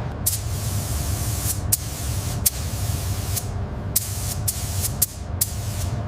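Compressed-air paint spray gun hissing in a run of bursts with short breaks between them, over a steady low hum.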